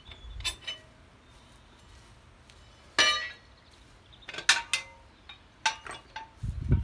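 Metal clinks and clanks from steel implement parts, with one louder ringing clank about three seconds in and a few lighter clinks after it.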